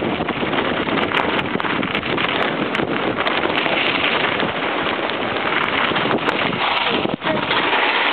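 Wind rushing over the microphone of a camera riding along on a mountain bike, with scattered clicks and rattles; the noise dips briefly about seven seconds in.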